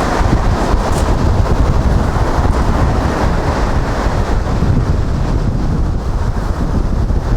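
Wind buffeting the microphone: a loud, steady rumbling noise, with a light click about a second in.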